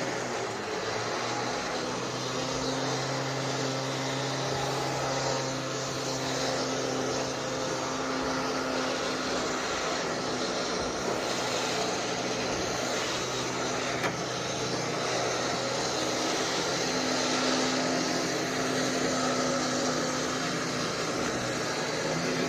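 Recovery truck's engine running at a steady speed with a constant drone while the winch pulls the car up onto the bed.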